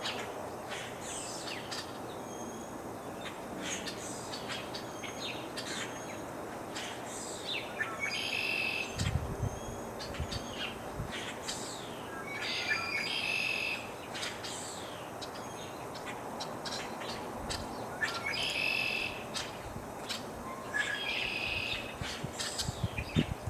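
Wild birds calling over the prairie: a song phrase of about a second repeats four times amid scattered short, high chirps, over a soft background hiss. A brief low rumble of breeze comes about nine to eleven seconds in.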